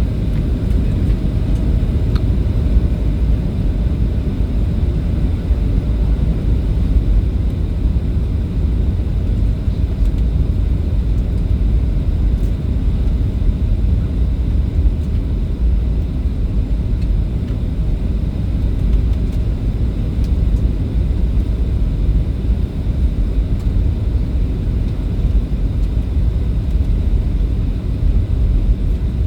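Airliner cabin noise: a steady low rumble of engines and airflow heard from inside the cabin.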